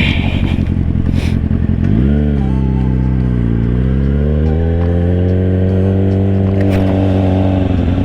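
Motorcycle engine under throttle: its note jumps up about two seconds in, dips, then climbs steadily for several seconds before falling away near the end.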